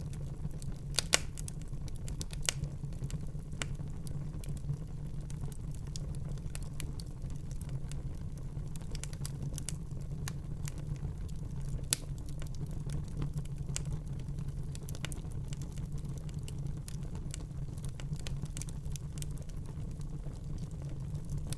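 Wood fire burning in a fireplace: a steady low rumble of the flames with irregular sharp crackles and pops, the loudest about a second in and again about halfway through.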